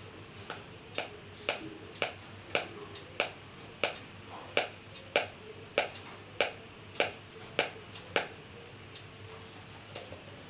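A parrot drumming: a steady beat of about fourteen sharp taps, a little over half a second apart, that stops about eight seconds in.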